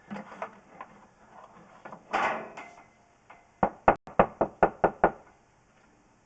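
Scattered handling clicks and a short scraping burst, then a quick run of about eight sharp knocks in about a second and a half.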